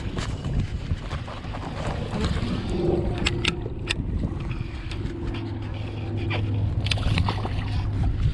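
Wind and water noise around a sit-on-top kayak, a steady low rumble, with a few sharp clicks and knocks about three to four seconds in and again near seven seconds.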